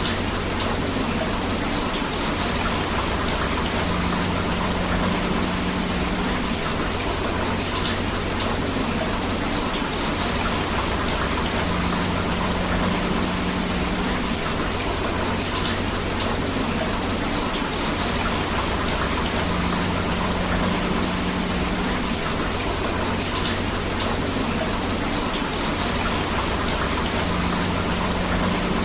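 Steady rain and rushing river water. The noise is dense and even, and a faint low hum recurs about every eight seconds, the mark of a short recording looped.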